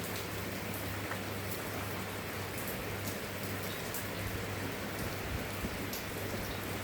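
Steady rain falling, an even wash of noise with scattered sharp drop ticks, over a constant low hum.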